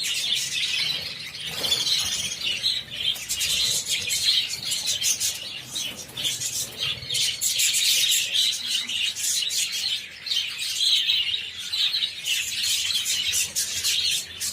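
Budgerigar flock chattering, a dense, continuous mass of overlapping chirps and warbles.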